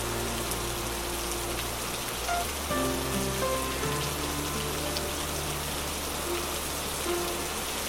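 Steady rain, an even hiss with fine pattering drops, over a soft ambient music bed. The music is long held bass notes that shift about two and a half seconds in, with quieter higher notes coming and going.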